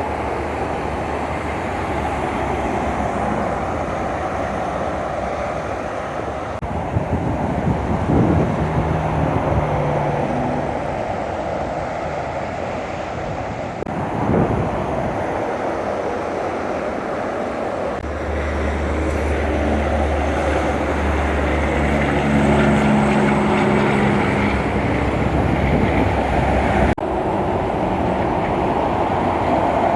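Highway traffic with heavy trucks going by: steady road and tyre noise, with deep diesel engine drones that swell and fade as trucks pass. The sound changes abruptly near the end.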